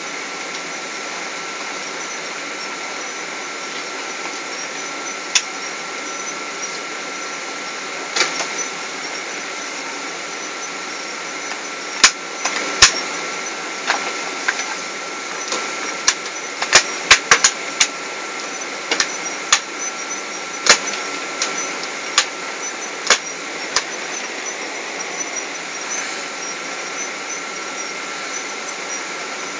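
Steady Boeing 777 cabin noise from a passenger seat: an even rush of engine and air noise with a thin steady whine. Through the middle stretch it is broken by a series of sharp clicks and knocks.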